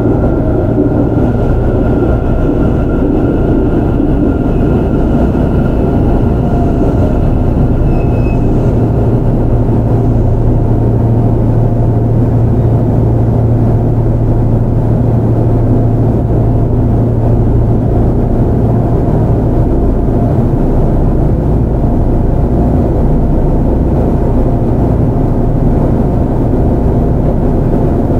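Inside a Kintetsu 5800 series electric train with Mitsubishi GTO-VVVF drive running at speed: a steady rumble of wheels on rail with traction-motor noise. A strong low hum fades away about two-thirds of the way through.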